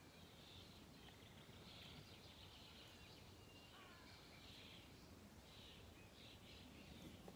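Faint birdsong, short phrases coming and going, over a quiet outdoor background hiss.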